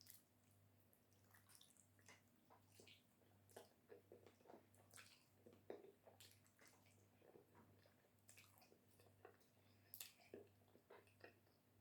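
Faint wet chewing and squelching of someone eating amala with slimy ogbono soup: many small irregular smacks and clicks, over a faint pulsing low hum.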